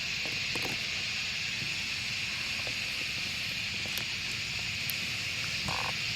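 Outdoor ambience: a steady high hiss with a low rumble beneath it, a few faint clicks, and a brief short sound near the end.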